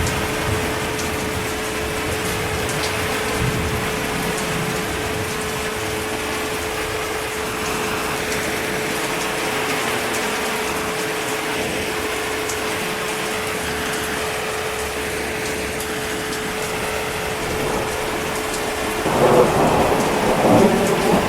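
Steady heavy rain falling, with a rumble of thunder swelling up near the end.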